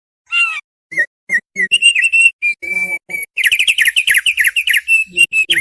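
Thick-billed heleia (opior paruh tebal) singing: a loud phrase of quick whistled chirps that breaks into a fast run of rapid notes about three seconds in.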